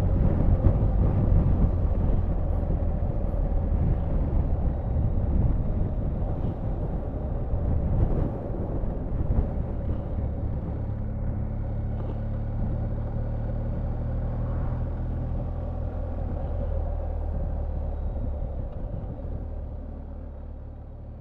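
Motorcycle riding along: a steady engine hum under wind and road rumble, fading near the end.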